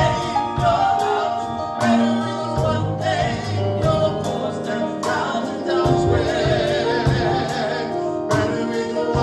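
Live gospel praise band playing with singers holding sustained notes, over a steady beat of percussion hits.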